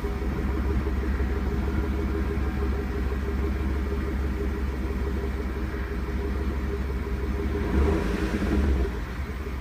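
Stock exhaust of a 2015 GMC Yukon's V8 running at a steady low rumble, with a short rise in revs about eight seconds in.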